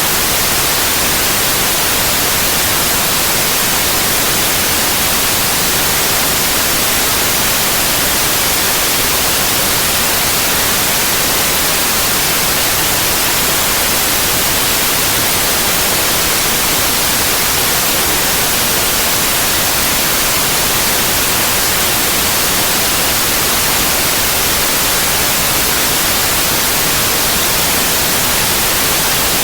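Synthetic white noise: an even, unchanging hiss spread across the whole range of pitch, strongest in the highs.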